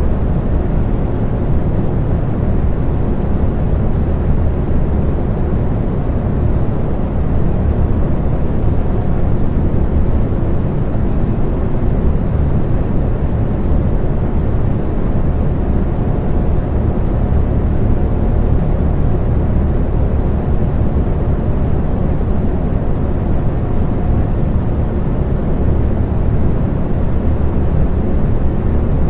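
Electric fan running steadily: a deep, even whoosh of moving air with a faint hum from the motor.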